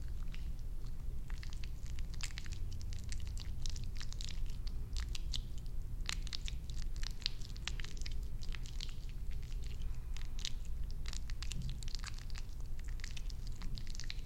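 Close-miked crackling and clicking of hair being worked during an ASMR haircut and shampoo: dense, irregular small clicks over a steady low hum.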